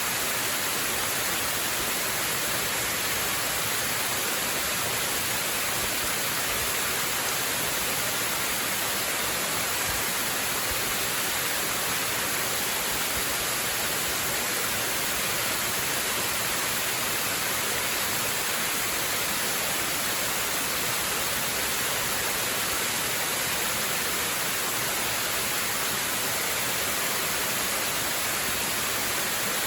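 Waterfall: water rushing in a steady, unbroken hiss.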